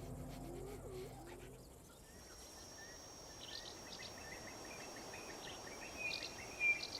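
Faint bush ambience. From about two seconds in, birds chirp and call in short repeated notes over a steady high-pitched drone.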